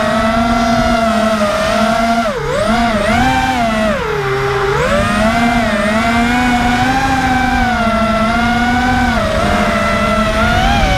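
Racing quadcopter's brushless motors whining as they fly, the pitch rising and falling with the throttle, with two sharp drops in pitch about two and four seconds in where the throttle is cut back.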